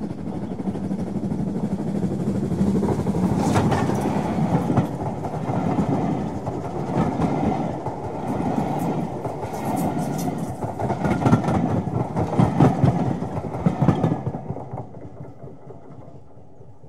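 A train passing: a steady rumble with irregular clicks of the wheels over rail joints, fading away about two seconds before the end.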